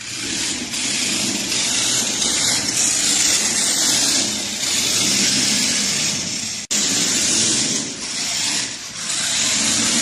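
Loud, steady machine-like noise, cut off for an instant about two-thirds of the way through and picking up again at once.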